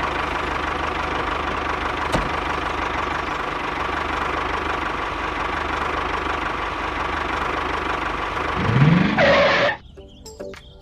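A small motor running steadily with a noisy whir. A short rising whine comes near the end, then the sound cuts off suddenly.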